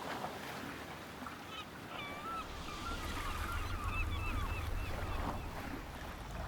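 A bird calling in a run of short, wavering honking cries over a steady hiss, with a low rumble building in the second half.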